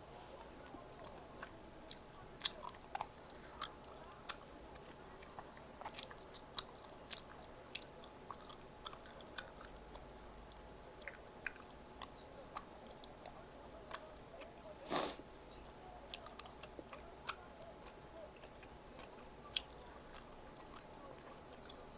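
Close-miked eating of Korean snack food: chewing and biting, with many short crisp clicks throughout and one longer noisy sound about fifteen seconds in.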